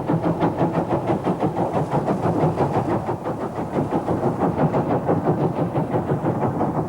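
Steam locomotive working under steam: the J36 0-6-0 Maude's exhaust beating rapidly and evenly, about five beats a second, with running and rail noise underneath.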